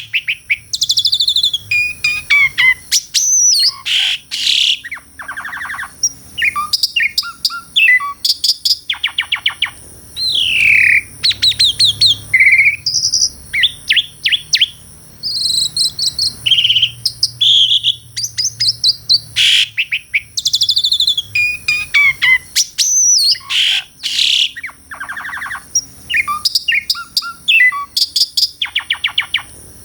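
Asian pied starling (jalak suren) singing a long, varied song. It strings together clear whistles, down-slurred notes, rapid rattles and clicks almost without pause.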